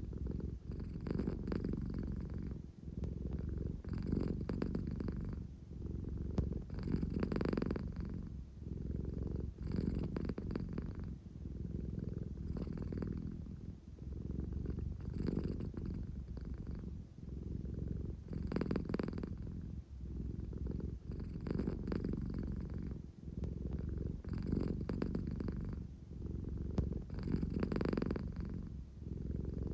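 American Shorthair cat purring steadily, a low rumble that swells and fades about every two seconds.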